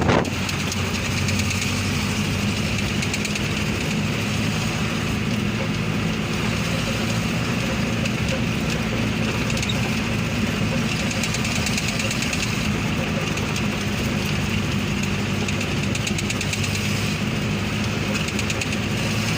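Vehicle engine running at a steady speed while driving, an even hum with no change in pace.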